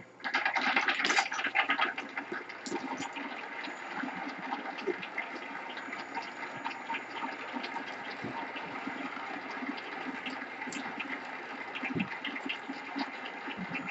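Crowd applauding in a hall: many hands clapping at once, loudest for the first two seconds, then settling into a steady applause.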